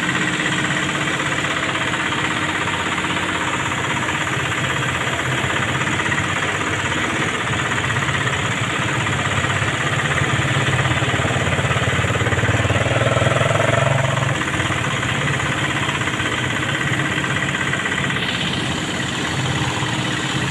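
Heavy-haul truck's diesel engine running steadily at low speed, with a low, even hum; it grows a little louder between about ten and fourteen seconds in.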